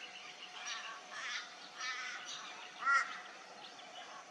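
Birds calling: a run of short, harsh calls, four or five in a row, the loudest about three seconds in.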